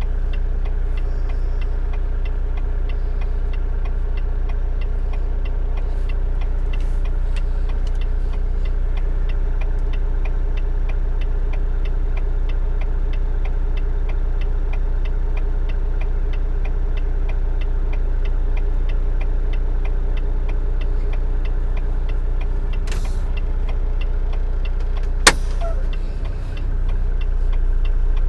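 Volvo dump truck's diesel engine idling steadily, heard from the cab, with a light regular ticking of about three or four ticks a second. One sharp click comes about 25 seconds in, and near the end the engine briefly dips and then runs louder.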